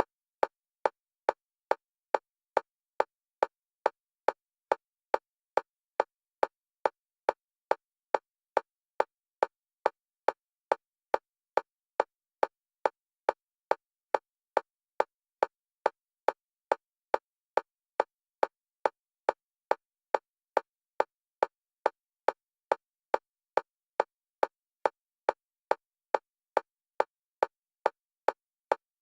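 Metronome click at a single pitch, repeating evenly at roughly two clicks a second and alternating between the left and right stereo channels: a bilateral stimulation track for EMDR.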